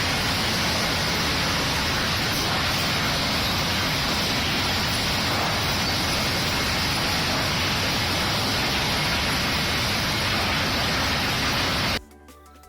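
Sawmill machinery running: a steady, loud, rushing din with no clear rhythm. It cuts off suddenly about 12 seconds in, leaving faint music.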